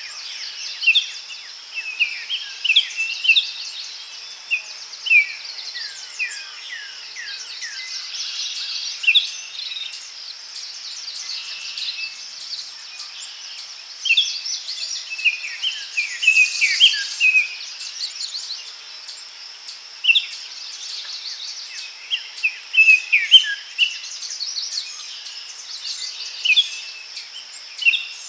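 Daytime forest ambience: several birds calling and singing in short chirps and sliding notes, over a steady high insect buzz with a regular fine ticking.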